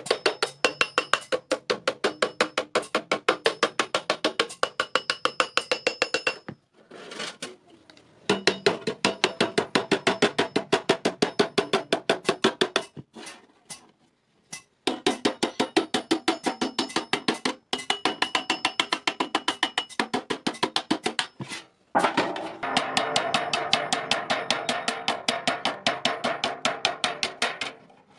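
Steady, rapid hammer blows on iron, about five a second, with a metallic ring, in several long runs broken by short pauses.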